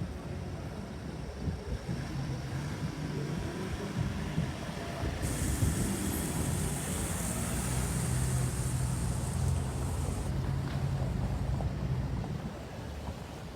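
Street traffic: motor vehicle engines running and passing, with a steady low rumble throughout.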